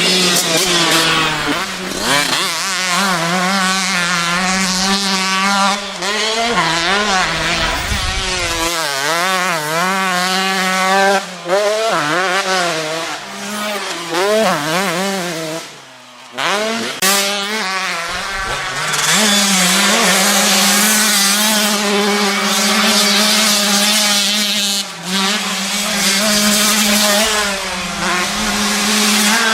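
Dirt-bike engine revving noise for racing toy motocross bikes, its pitch rising and falling over and over, with a brief break about sixteen seconds in.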